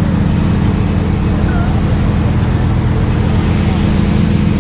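A car engine idling steadily close by, with a fast, even low pulse and an unchanging pitch, and faint voices in the background.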